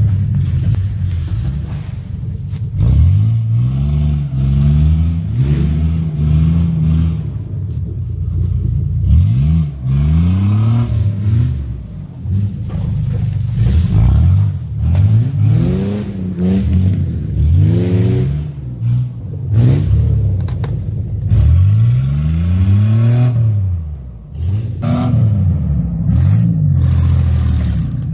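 A vehicle engine revved up and down over and over, its pitch rising and falling every second or two.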